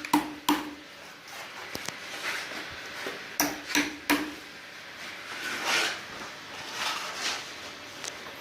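Carpentry knocks: a few hammer blows on wood, two near the start and a quick run of three a few seconds in, each with a short ring. They are followed by several softer scraping strokes on wood.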